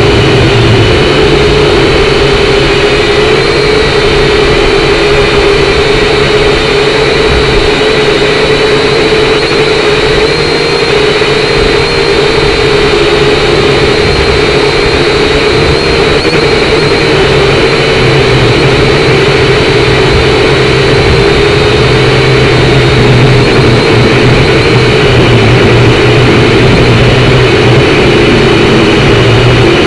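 Syma X5C quadcopter's small electric motors and propellers whining steadily, the pitch wavering slightly as the throttle shifts, over a rush of noise.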